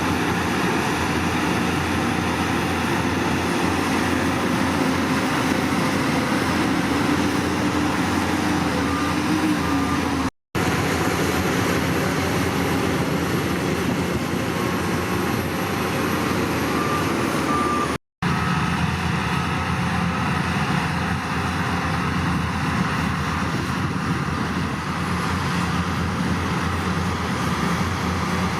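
Diesel engines of heavy earthmoving machinery running steadily under load. The sound cuts out briefly twice.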